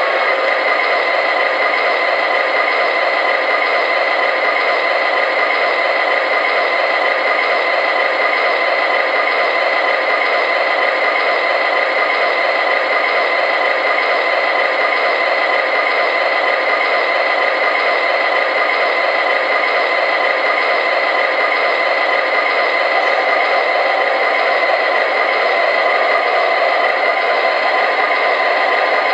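MTH Premier ES44AC model diesel locomotive running steadily on the track: a continuous mechanical rattle and whir with a steady hum of tones.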